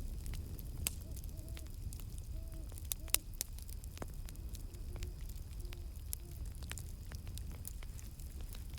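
Campfire crackling and popping over a low steady rumble, with a series of short hoots from a distant owl in the first two-thirds.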